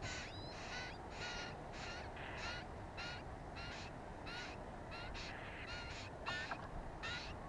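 A bird giving short, harsh calls over and over, about two a second, each ending with a slight upward lift.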